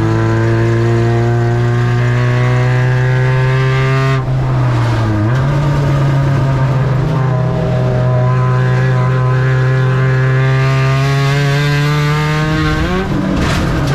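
Spec Ranger race truck's engine under sustained throttle, its pitch climbing steadily. It falls away sharply about four seconds in as the driver lifts off, then builds again, with a quick flare and drop near the end.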